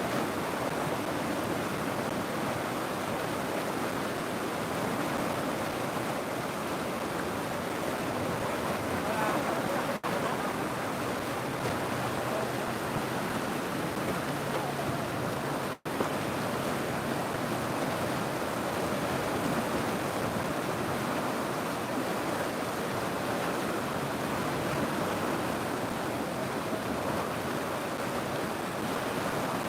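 River water flowing steadily in an even rush, cutting out for a moment twice, about ten and sixteen seconds in.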